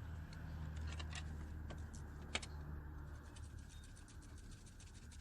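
Scattered light metallic clicks and clinks of hand tools and a bolt being handled while a serpentine belt tensioner pulley is fitted, one sharper click about halfway through, over a low steady hum.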